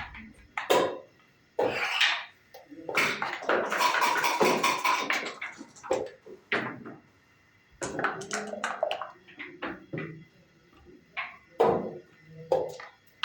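Backgammon play: dice rattling in a cup and tumbling onto the board, with wooden checkers clicking and sliding into place. There are separate sharp taps, a dense rattle about three to five seconds in, then more quick clicks.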